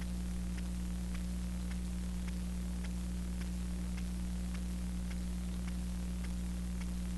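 Steady low electrical hum with an even hiss, and faint regular ticks about twice a second.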